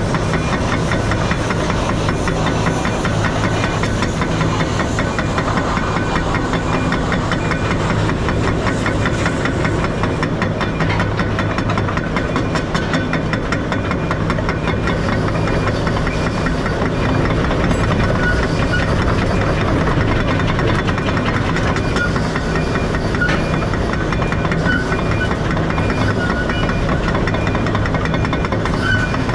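Semi truck's diesel engine running steadily, with a fast, even pulse.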